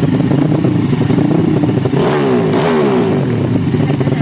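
Racing motorcycle engines running loudly and steadily; about two seconds in, a second engine note falls sharply in pitch for about a second, as a bike passes or comes off the throttle.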